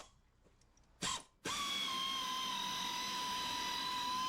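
A power tool, likely driving off a turbo nut, starts about one and a half seconds in and runs with a steady high whine, after a brief knock-like noise just before it.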